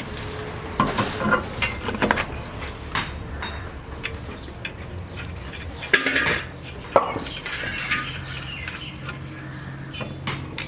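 Metal tools and parts clinking and knocking as they are handled during shock absorber work: a series of irregular sharp clinks, the loudest two about six and seven seconds in.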